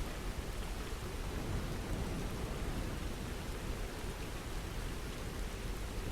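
Steady, continuous rain, its sound weighted to a deep low rush with a finer hiss above.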